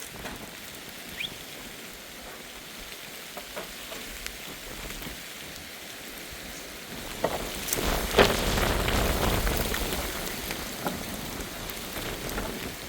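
Heavy rain falling steadily. About seven seconds in, a louder swell with a low rumble comes in, peaks about a second later, then fades over several seconds.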